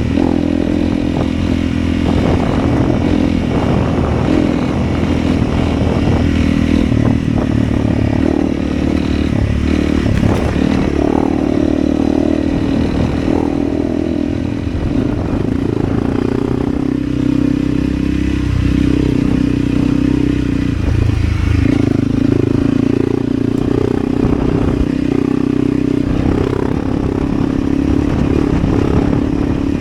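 Motorcycle engine running continuously under way, its note rising and falling as the throttle is worked, with clatter and rattling mixed in.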